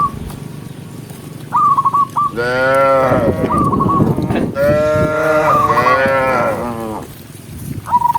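Cattle mooing: two long, drawn-out moos one right after the other. A bird chirps short, repeated notes around them.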